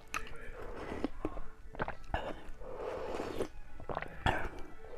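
A person chewing and biting food close to the microphone: wet mouth sounds with scattered sharp clicks, and a longer stretch of chewing about three seconds in.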